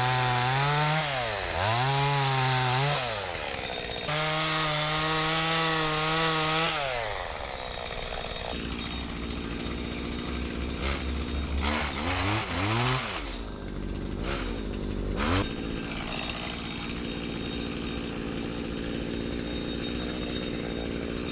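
An engine revving up and down repeatedly, several long revs in the first few seconds and a couple more later, settling into a steadier rumble.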